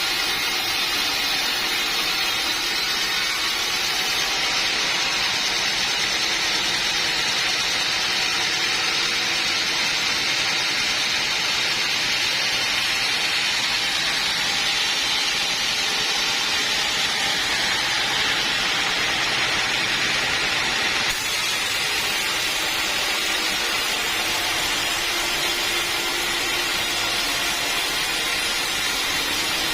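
Sawmill saw running steadily through teak wood: an even, unbroken mechanical noise that shifts slightly about two-thirds of the way through.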